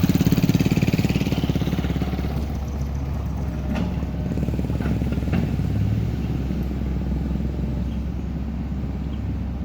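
Heavy vehicle engine running steadily with an even low throb, a few faint clanks about four to five seconds in.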